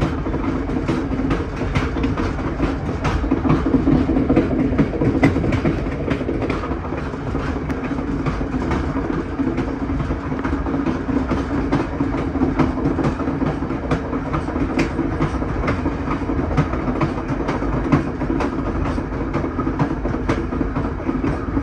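Passenger train rolling over jointed rail, heard from a car's rear vestibule: a steady rumble with a continual stream of sharp clicks as the wheels cross the rail joints.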